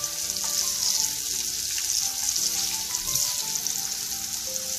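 Halved potatoes sizzling steadily in hot oil in a frying pan while a metal spoon turns them over.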